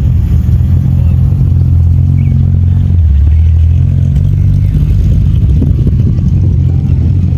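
A classic car's engine and exhaust rumbling deep and loud as the car drives slowly past. The note dips a little in pitch about three seconds in.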